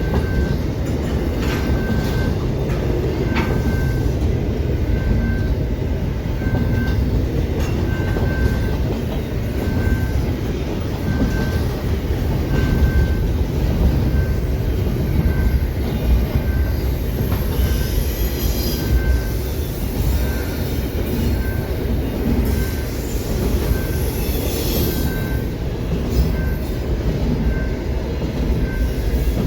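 A train rolling through a grade crossing with a steady heavy rumble and brief high wheel squeals now and then. Over it, the crossing's General Signals Type 2 bell rings evenly about once a second.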